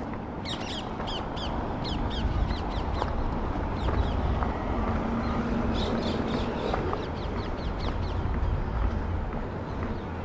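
Birds calling in quick runs of short, high, falling chirps, over a steady low rumble of city background.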